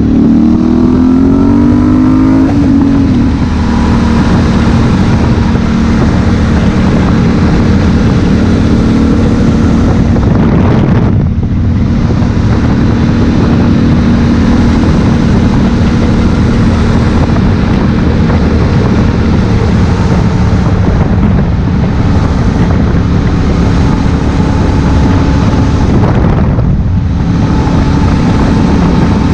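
Honda Africa Twin CRF1000L's parallel-twin engine pulling up through the revs for the first couple of seconds, then holding a steady cruising note under a constant rush of riding noise. The sound thins out briefly twice, about eleven and twenty-seven seconds in.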